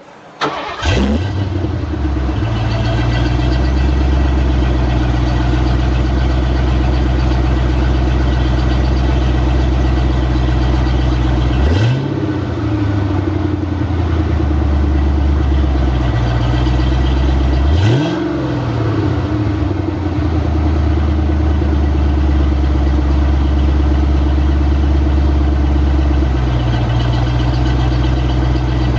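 1991 Ford Mustang GT's 5.0-litre V8 starting up about half a second in through BBK headers, a catted H-pipe and a Flowmaster American Thunder Super 44 cat-back exhaust, then idling steadily. It is revved briefly twice, each blip rising and falling back to idle.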